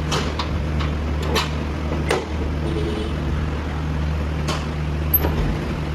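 Steady low hum of a standing train, with scattered sharp metallic clicks and knocks as the luggage van's door is unlocked and opened.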